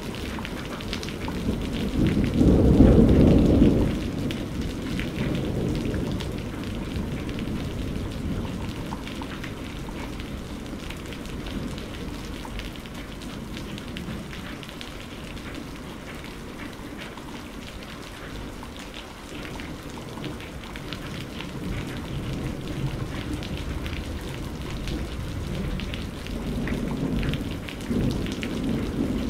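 Steady rain falling in a thunderstorm, with many small drop ticks. A loud low rumble of thunder about two to four seconds in fades away over the next few seconds, and another rumble builds near the end.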